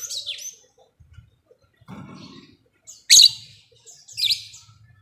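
Lovebird calling in short, shrill, separate chirps: one at the start, a fainter one about two seconds in, the loudest about three seconds in and another just after four seconds.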